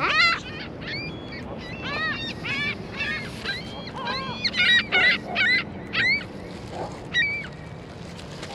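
Waterfowl calling repeatedly: a string of short, high, nasal calls in quick succession, the loudest cluster around four to six seconds in.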